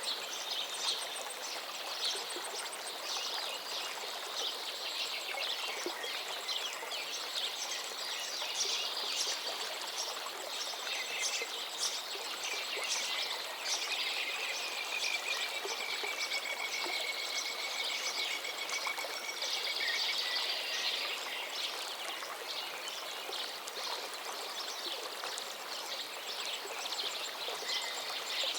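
A river running steadily with many birds singing over it: dense chirps and trills, with one long trill from around the middle of the stretch.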